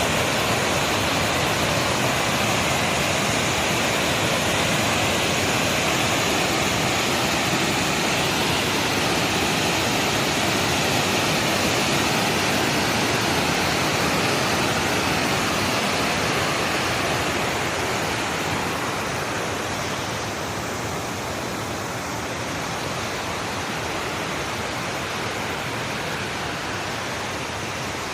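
Steady rushing of water, a dense even roar that eases a little about two-thirds of the way through.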